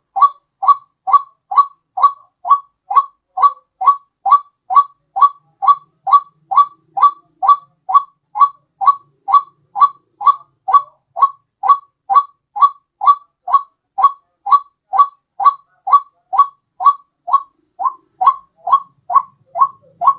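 White-breasted waterhen (ruak-ruak) call played as a bird lure: one short, clipped note repeated evenly about twice a second without a break.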